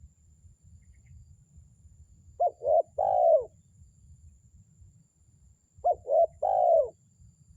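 Spotted dove (terkukur) cooing: two phrases about three seconds apart, each two short coos followed by a longer falling coo.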